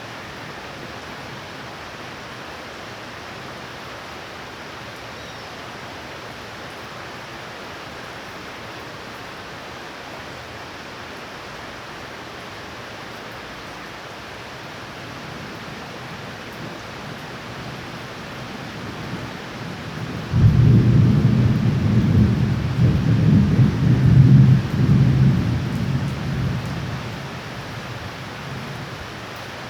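Steady rain hissing throughout. About halfway through, a low thunder rumble begins to build. Then a loud thunderclap starts suddenly and rolls deep and low for about six seconds before fading back under the rain.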